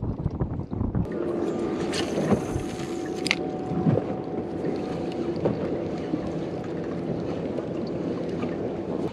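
Small boat on open water with wind buffeting the microphone; about a second in a steady low hum starts and holds, with a few brief clicks over it.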